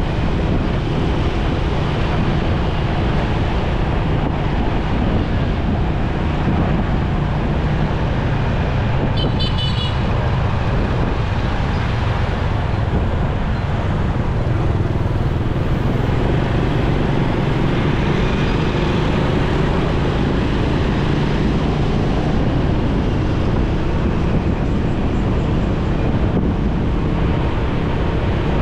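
Motorcycle riding in busy road traffic: steady engine and road noise, with a short high-pitched horn beep about nine seconds in.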